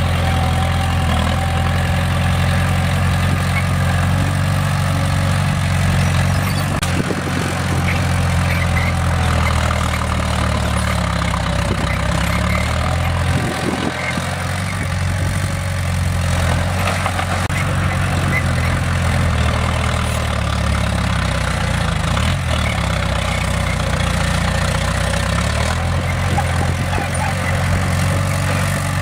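Bulldozer's heavy diesel engine running steadily under work, its pitch dropping and rising a few times, with a rattling noise above it.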